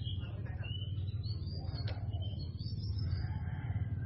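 Birds chirping in short high calls, some rising and some falling, over a steady low rumble.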